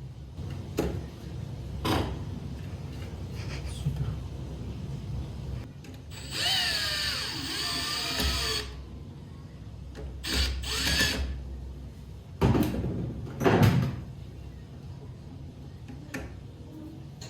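Electric drill running for about two seconds, its motor pitch wavering, followed by a shorter burst. Several knocks and handling clatter come before and after.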